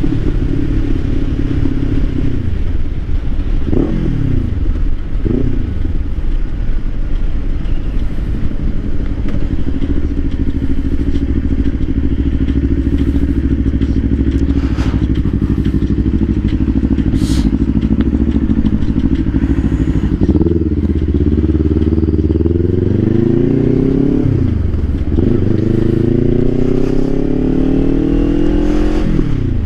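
2024 Kawasaki Ninja 500's parallel-twin engine under way. It changes gear twice about four and five seconds in, then holds a steady cruise. Later it pulls up through the revs, with gear changes dropping the pitch twice near the end.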